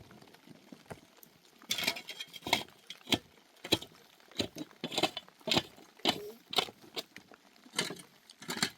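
Metal utensil clinking against metal cookware in a steady rhythm, about two strokes a second, starting a second or two in.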